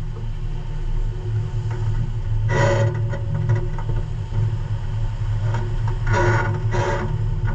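Semi-truck diesel engine running with a steady low rumble while the truck backs up, with three short louder bursts over it: about two and a half seconds in, then twice near the end.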